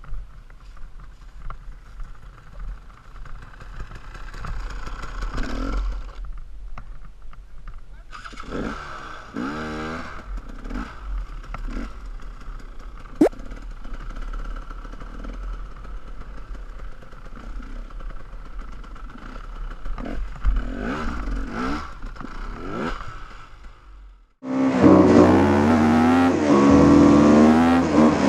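KTM 250 EXC two-stroke enduro motorcycle engine heard from a helmet camera over steady wind rumble, its revs rising and falling as the rider accelerates and backs off, with a single sharp knock about 13 seconds in. About 24 seconds in it cuts off and a louder, different sound takes over.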